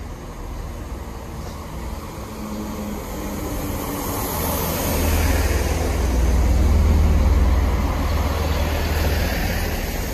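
Chiltern Railways diesel multiple unit running along the platform, with a low diesel engine rumble and wheel-on-rail noise. It grows louder to a peak around the middle, then eases a little as the coaches go by.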